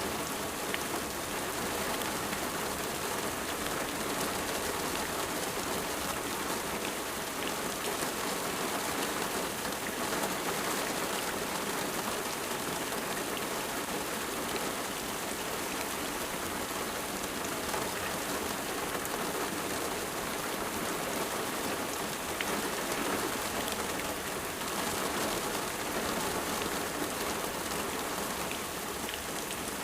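Steady rain falling, a dense even hiss with many small drops pattering.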